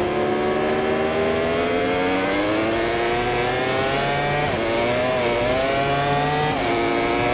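MotoGP racing motorcycle engine heard onboard, accelerating hard with its pitch climbing steadily. It drops briefly in pitch about four and a half seconds in and again near the end as the rider shifts up a gear, then climbs again.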